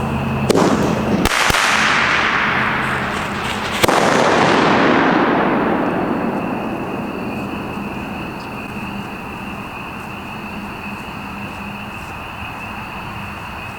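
An aerial firework shell is fired from its mortar with a sharp bang about a second in. It bursts with a second loud bang a few seconds later, and the report rolls away as an echo that fades over several seconds.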